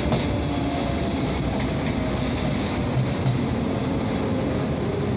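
Shinano Railway 115-series electric train running at speed, heard by an open side window: a steady rumble of wheels and traction motors mixed with wind noise.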